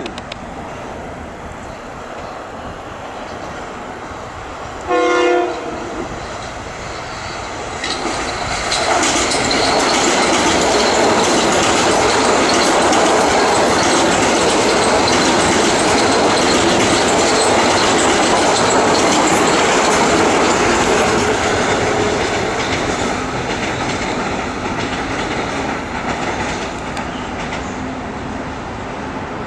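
Metro-North electric multiple-unit train sounding a short horn blast about five seconds in. Then a long express train passes through at speed, loud for about fifteen seconds before fading away near the end.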